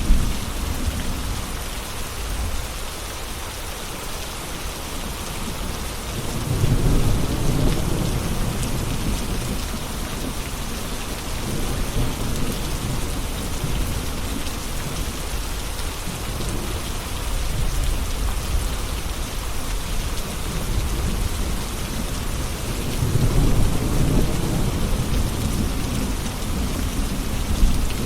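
Steady heavy rain hissing on surfaces, with low rolling thunder swelling up twice, about a quarter of the way in and again near the end.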